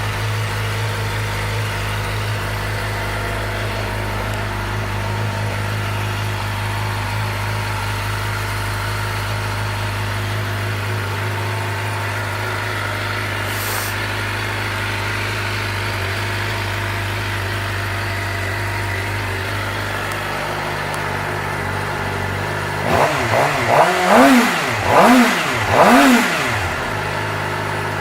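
2013 Suzuki GSX-R750's inline-four engine idling steadily, then near the end revved in four quick throttle blips, each rising and falling in pitch, before settling back to idle.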